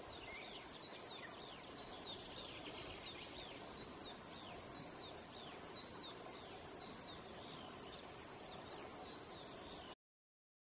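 Faint field ambience: a small bird repeating a short chirp that falls in pitch, about two a second, over a thin steady high hiss. The sound cuts off suddenly near the end.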